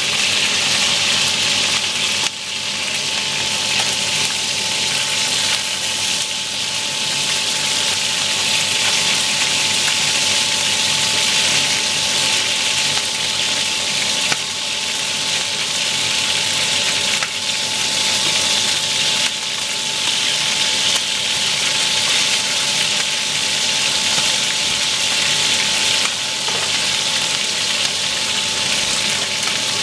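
Rabbit pieces frying in oil in a nonstick pan, a steady sizzle, with a few light clicks as the pieces are turned with tongs. A thin steady whine runs underneath.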